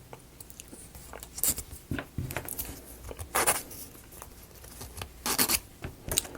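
Thin laser-cut plywood model pieces being handled, sliding and rubbing against each other and the work surface in a few short scraping rustles.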